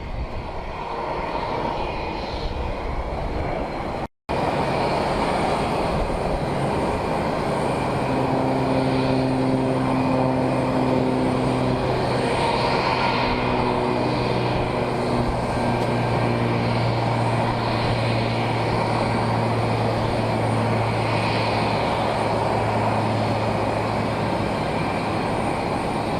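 Airplane engines running steadily, a continuous noise with a steady low hum through it. The sound breaks off for an instant about four seconds in.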